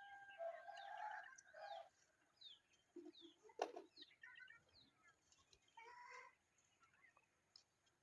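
Faint bird calls: a run of short, high, falling chirps, a held whistle in the first couple of seconds and bursts of chatter, with one sharp click about halfway through.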